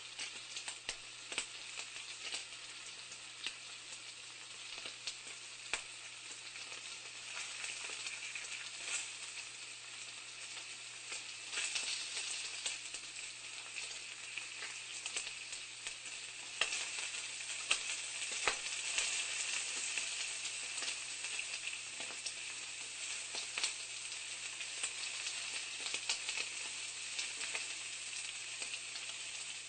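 Food frying in a pan: a steady sizzle with frequent crackles and pops, growing a little louder about twelve seconds in.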